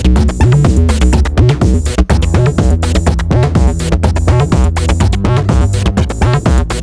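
Eurorack modular synthesizer playing a sequenced acid line: short filtered oscillator notes in a quick, steady rhythm over a heavy bass with electronic percussion hits, chopped into granular textures.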